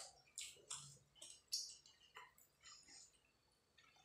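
Soft, wet mouth smacks and chewing of a hand-fed mouthful of rice and fish curry, a run of short clicks about two a second.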